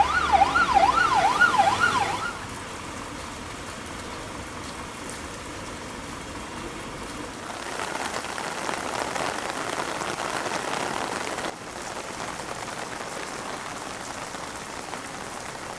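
An emergency vehicle siren wails rapidly up and down, about twice a second, and stops about two seconds in. After that comes the steady hiss of heavy rain, which grows louder around the middle and shifts again later.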